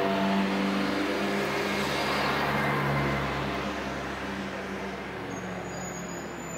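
Cars rolling slowly down a pit lane with engines at low, steady revs: a Renault Clio passing close, then a BMW M3's deeper engine note building as it approaches. A thin high squeal joins near the end.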